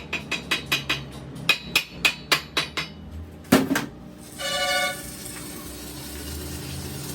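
Repeated hammer blows, about three to four a second, ending with one heavier blow about three and a half seconds in. A short steady tone follows, then a steady hiss.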